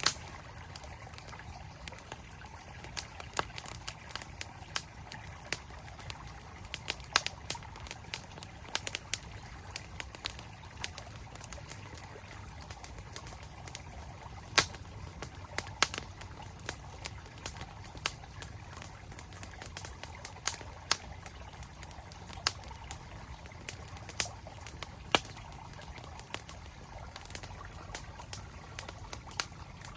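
Campfire crackling with irregular sharp pops and snaps, over the steady rush of a mountain stream.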